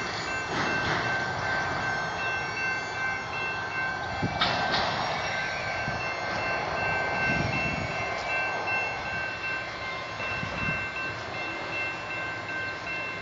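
BNSF freight train moving along the tracks, a steady rolling rumble with a thin, steady high-pitched squeal over it. A couple of sharp clanks come about four seconds in.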